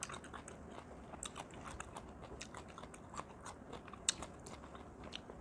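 Close-up chewing and eating sounds: scattered small clicks and crunches of food being bitten and chewed, with a louder click about four seconds in.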